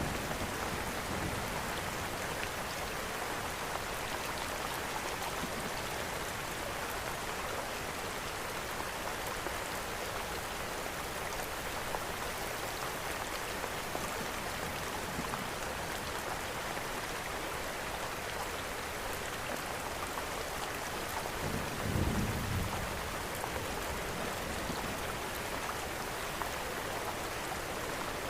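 Steady heavy rain hissing, with scattered light crackles of a fireplace. A short low rumble of distant thunder comes about three-quarters of the way through.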